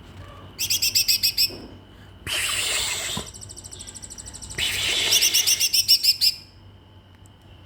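White-rumped shama (murai batu) singing loudly: phrases of quickly repeated high notes about a second in and again around five to six seconds, with a harsh rasping phrase and a fast rattling trill in between.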